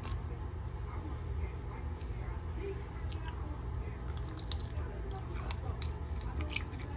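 Cooking sounds: scattered small clicks and wet taps over a steady low hum.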